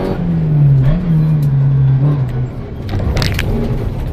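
VW Polo 1.4 rally car engine heard from inside the car under hard driving: the engine note drops in pitch right at the start, holds steady, then falls away about two and a half seconds in, leaving road and car noise with a few sharp clicks.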